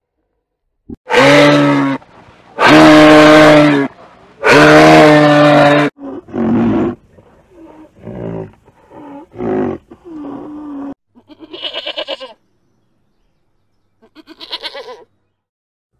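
A series of animal calls: three long, loud calls held at a steady pitch in the first six seconds, then several shorter, quieter calls, and two rattling calls near the end.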